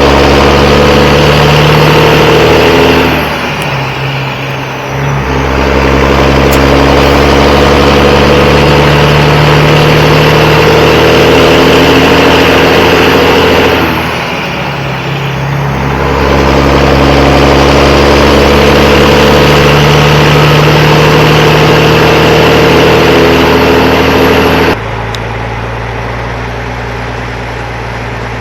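Heavy diesel engine running hard and steady, easing off twice for about two seconds before pulling again. Near the end the sound cuts abruptly to a quieter, steady engine drone.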